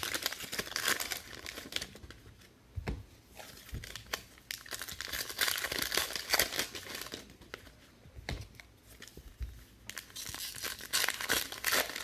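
Plastic wrapping on a box of trading cards being torn and crinkled by hand, in irregular crackly bursts, with a couple of soft low thumps.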